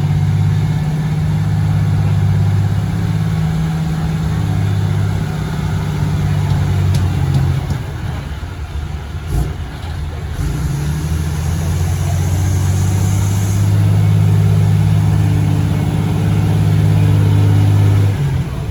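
A heavy truck engine running steadily, with a dip in its hum about eight seconds in before it settles again. A high hiss lasts a few seconds near the middle.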